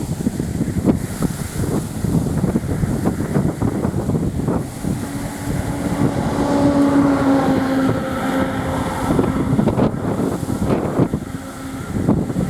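Strong wind buffeting the microphone, with the steady droning hum of a Bombardier Dash 8 Q400's turboprop engines coming in about four seconds in, strongest in the middle, and fading out near the end.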